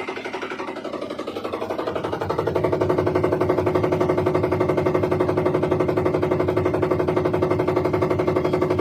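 IFB 11 kg top-load washing machine running with a rapid, steady mechanical rattle over a hum. It grows louder over the first two seconds or so, then holds. This is the abnormal noise the machine is being checked for.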